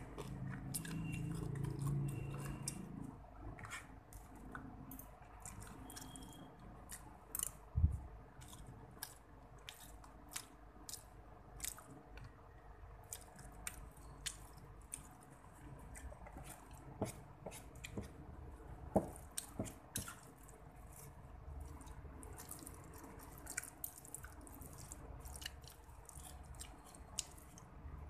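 Close-up chewing of a mouthful of spaghetti and rice, with many small wet mouth clicks and smacks at an uneven pace. There is a single soft thump about eight seconds in.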